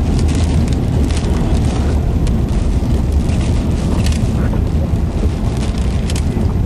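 Loud, steady low rumble of wind and road noise in a moving vehicle in a rainstorm, with scattered light ticks.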